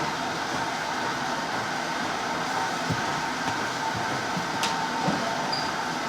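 Steady mechanical hum and noise in a gym hall, with a faint steady tone and a few soft knocks about halfway through, plus one short click.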